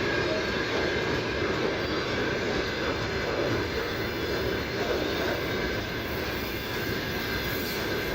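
Freight train rolling past on the rails: a steady, even rolling noise of wagon wheels that does not let up.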